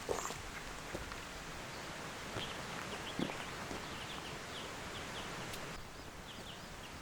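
Outdoor ambience: a steady hiss with runs of short, high chirps, several a second, from about two and a half seconds in, and a few sharp knocks or rustles.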